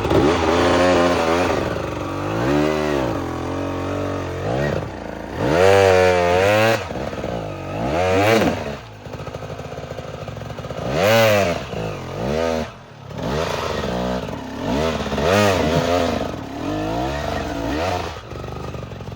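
Dirt bike engine revved hard again and again, its pitch climbing and dropping in about eight separate throttle bursts, as the bike works its way over rocks.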